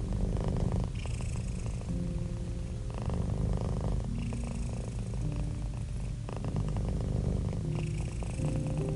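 Domestic cat purring close up: a steady low rumble that swells in cycles about every three seconds.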